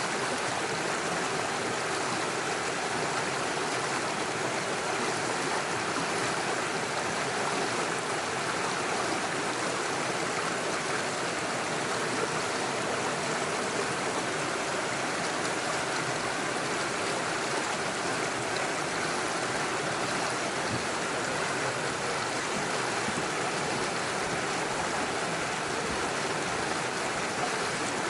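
Small stream running over stones and little waterfalls, a steady, even rush of water with no change.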